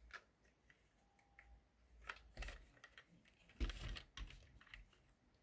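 Faint scattered clicks and taps of plastic LEGO pieces being handled on a table, loudest in a short cluster with a soft thump a little past the middle.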